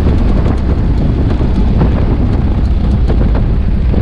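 Jacobs seven-cylinder radial engine of a 1935 Waco YOC cabin biplane running at reduced power on final approach, propeller in fine pitch, heard from the cockpit as a steady low rumble mixed with wind rushing past.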